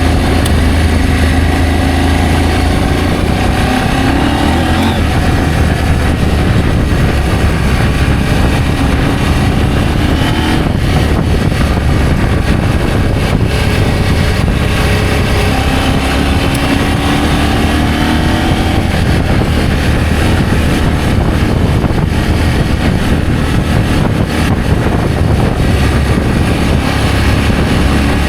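Adventure motorcycle engine running while riding, its pitch rising and dropping several times as it accelerates and eases off, over a steady low rumble.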